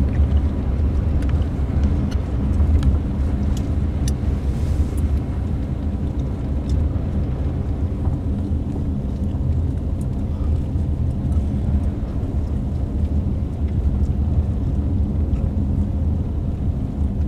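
Steady low rumble of a car driving on an untreated snow-covered road, heard from inside the cabin, with a few faint ticks.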